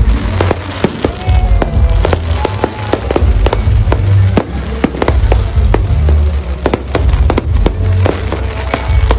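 Aerial fireworks bursting overhead in quick, irregular bangs and crackles, over loud music with a heavy bass.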